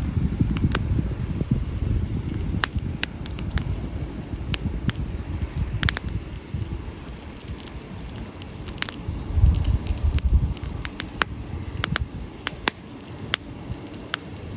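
Wood campfire crackling, with sharp, irregular pops scattered throughout over a steady low rumble.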